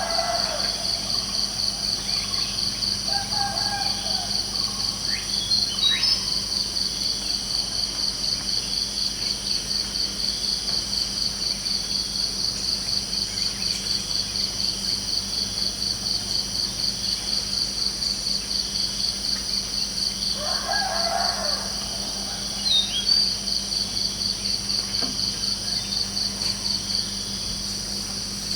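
Crickets chirping in a steady, evenly pulsing high trill, with a few short bird calls and chirps over it.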